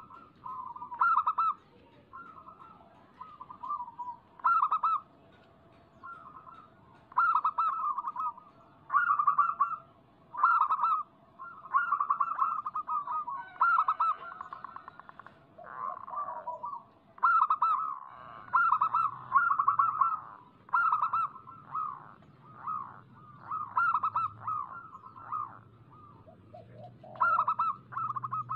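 Zebra doves (perkutut) cooing, phrase after phrase of quick, rippling coo notes with brief pauses between them, some phrases overlapping as though from more than one bird. It is a lure call that is meant to set a caged perkutut singing.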